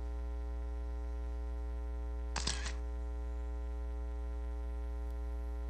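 Steady electrical mains hum, with one brief noisy burst about two and a half seconds in.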